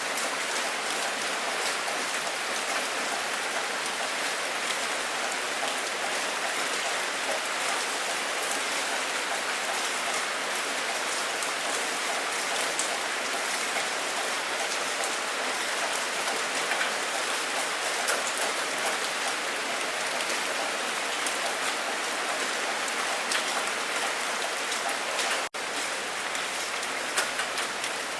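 Steady heavy rain falling, an even hiss with the patter of individual drops, cutting out for an instant near the end.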